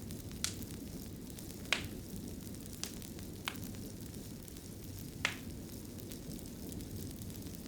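Wood fire burning in a fireplace: a steady low rumble of flames with irregular sharp crackles and pops, about five in a few seconds, the strongest near two seconds in and again near five seconds in.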